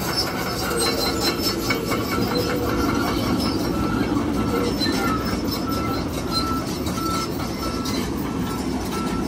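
Heavy machinery running with a steady, loud rumble. From about five seconds in, a backup alarm beeps about twice a second as the machine reverses.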